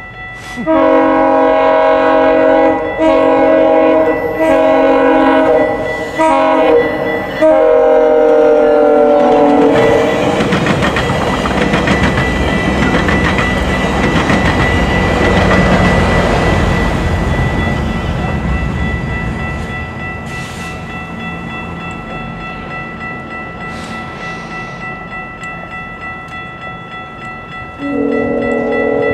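GO Transit commuter train's air horn sounding a series of blasts for the level crossing, the last long blast dropping in pitch as the train passes. Then the rumble and clatter of the bilevel coaches rolling over the crossing, slowly fading, before another horn blast begins near the end.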